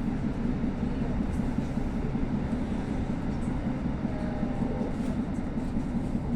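Interior of a moving passenger train: a steady low rumble of wheels and running gear on the track, with a faint thin whine about four seconds in.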